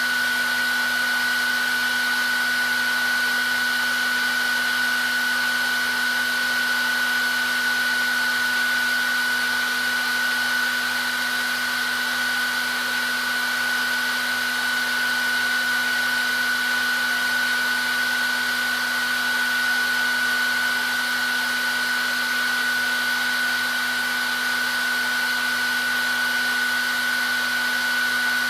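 Hair dryer running continuously: a steady, even rush of air with a constant high whine from the motor and a lower steady hum beneath it.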